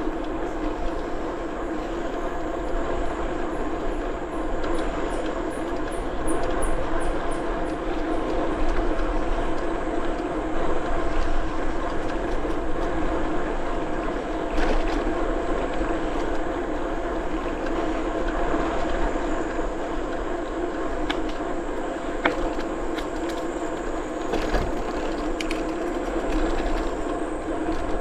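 Steady rolling noise of a bicycle in motion: tyres running on the trail surface and wind on the microphone, with a few light clicks and rattles from the bike. A faint series of quick high chirps sounds a few seconds in.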